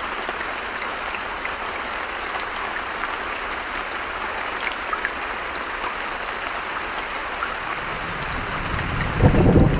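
Steady rain falling, with scattered drops ticking. Near the end a low thunder rumble builds and grows loud in the last second.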